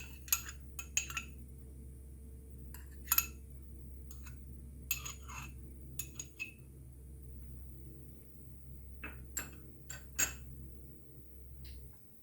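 A spoon clinking and tapping against a cooking pan as ghee is spooned in, a dozen or so short, sharp clinks spread unevenly. A steady low hum runs underneath and stops near the end.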